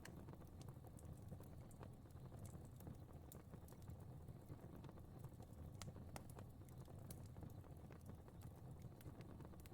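Fire burning in a fireplace, faint: irregular crackles and small pops, several a second, over a low steady rumble of the flames.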